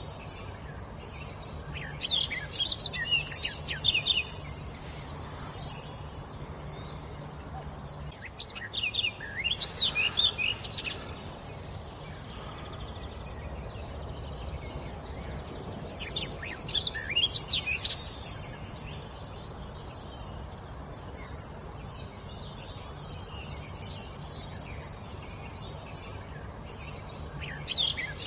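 A songbird singing short phrases of quick, high, warbling notes, each about two seconds long and repeated every seven or eight seconds, over a steady background hiss.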